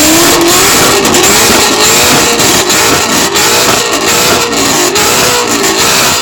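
Car with a loud aftermarket exhaust being revved hard over and over, the engine pitch climbing and dropping with each rev, with frequent sharp crackles.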